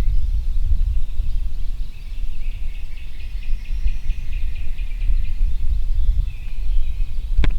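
Steady low outdoor rumble with songbirds singing faintly in the background, including a rapid trill of repeated notes a few seconds in. A sharp click comes near the end.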